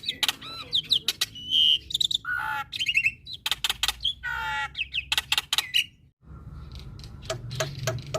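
Male black-winged starling (jalak putih) singing a rapid, varied song of whistles, gliding notes, buzzy rattles and sharp clicks. The song drops out suddenly for a moment about six seconds in, then resumes with quick repeated notes over a low hum.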